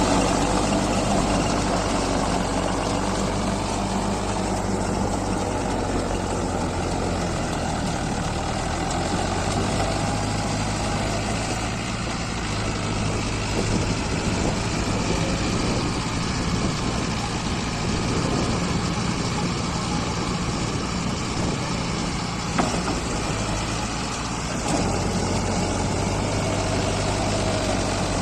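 Mahindra Arjun Novo 605 4WD tractor's diesel engine running steadily, its pitch shifting a couple of times.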